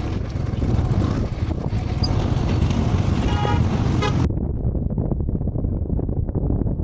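Motorcycle riding rumble mixed with wind on the microphone, with a short vehicle horn toot about three and a half seconds in. About four seconds in the sound turns abruptly duller, leaving only the low rumble.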